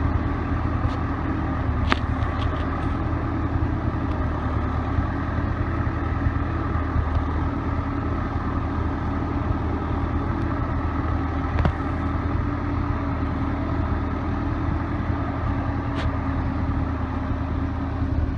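The CASE 580B backhoe's four-cylinder diesel engine running steadily, with a few short sharp knocks from the machine.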